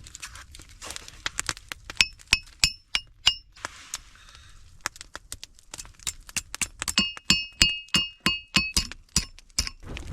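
Hammer blows on a heated steel rod at a stump anvil: sharp metallic clinks that ring, in a quick run about two seconds in and another about seven seconds in, with scattered knocks between.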